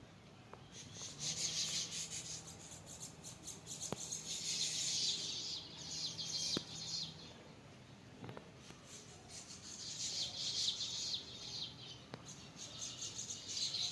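Birds chirping in a dense, high-pitched chatter that comes in two long stretches, with a short lull in the middle and a few sharp clicks.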